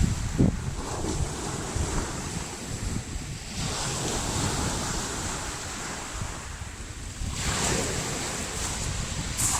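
Surf of a slightly stormy sea, with wind buffeting the microphone. Waves wash in with a rising hiss about three and a half seconds in and again about seven and a half seconds in.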